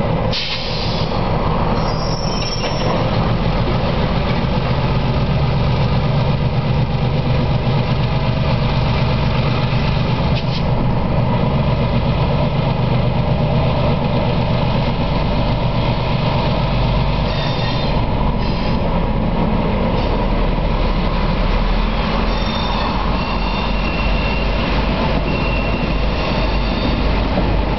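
Two EMD MP-15 diesel switchers running past with a steady low rumble, followed by empty flatcars rolling by on the curve. Brief high-pitched wheel squeals come near the start and again near the end.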